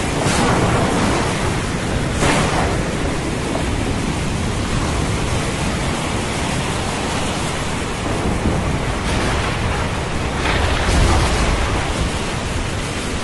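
Thunderstorm ambience of steady rain hiss over ocean surf, with louder rushing swells a couple of seconds in and again about ten seconds in, the later one carrying a deep rumble of thunder.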